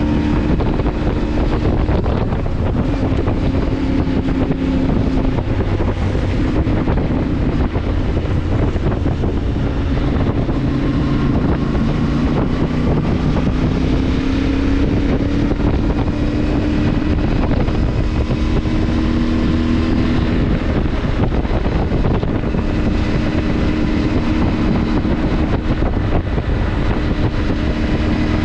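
A CFMoto motorcycle engine running while riding, its note drifting gently up and down with the throttle, with wind buffeting the microphone.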